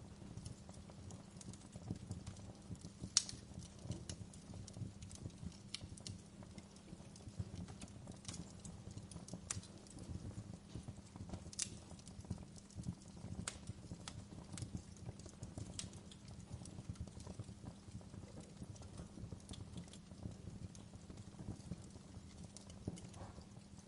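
Wood fire in a fireplace crackling: irregular sharp pops and snaps over a low steady rumble, with one louder pop about three seconds in.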